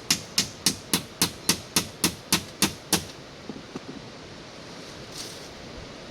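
Rapid, evenly spaced blows of a tool striking wood, about three or four a second, which stop about three seconds in. After that only a steady hiss of heavy rain is left.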